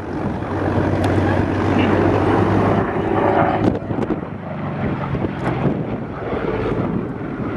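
Pratt & Whitney R-2800 radial engine of an FG-1D Corsair droning as the fighter flies by. It swells to its loudest in the middle seconds, then eases off, with wind buffeting the microphone.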